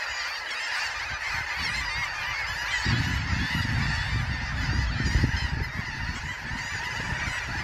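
Dense chorus of many overlapping calls from a huge flock of shorebirds, red knots among them. A low rumble joins about three seconds in.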